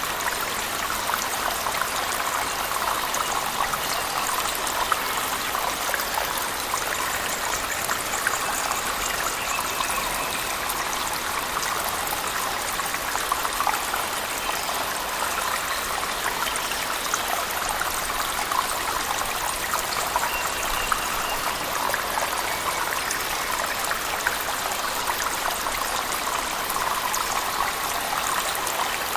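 Steady rush of falling water, a cave waterfall mixed with heavy rain, with many small spattering drops over a constant wash.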